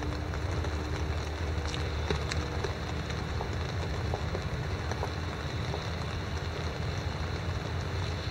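Steady rain falling, with scattered sharp drop ticks over a low steady rumble.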